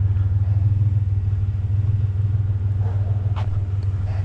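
Pickup truck engine idling with a steady low rumble, with a couple of short clicks or taps about three and four seconds in.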